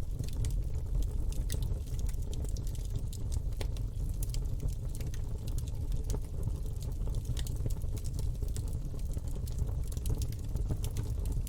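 Campfire burning: a steady low rumble with frequent, irregular sharp crackles and pops.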